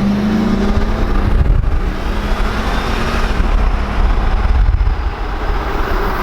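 Pickup truck driving at highway speed: a steady, loud rumble of engine, tyres and wind, with a low engine tone fading out in the first second or so.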